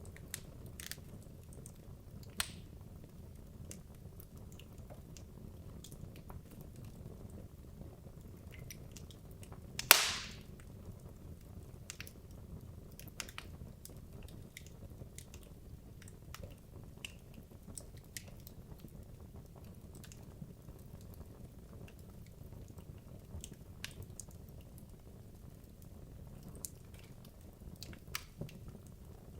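Wood logs burning in a fireplace: scattered small crackles and one loud pop about ten seconds in, over a steady low rumble of the flames.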